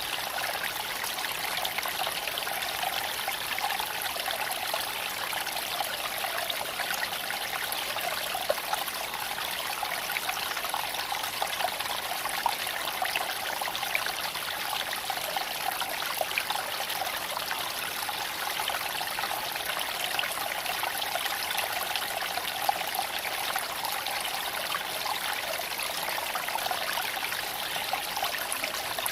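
Creek water running and trickling steadily over stones, with a few brief sharp ticks scattered through it.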